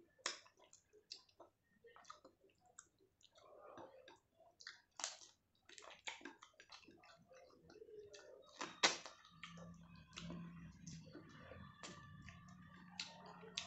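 A person eating: chewing and wet mouth sounds with scattered short clicks and smacks. About nine seconds in, a low steady hum comes in underneath.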